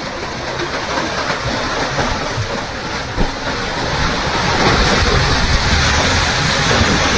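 A loud, steady rushing roar with no clear tone, getting louder about halfway through.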